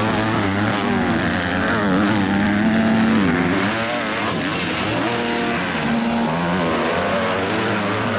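Several motocross bikes racing, their engines revving up and down together, pitches rising and falling as the riders work the throttle.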